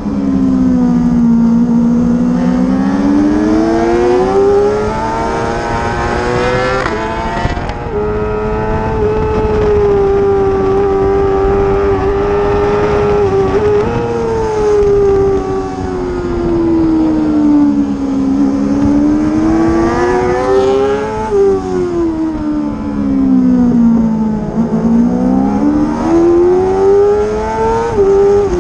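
Racing motorcycle engine running hard on track. Its pitch climbs and falls several times, with a few sudden breaks in pitch as the rider changes gear.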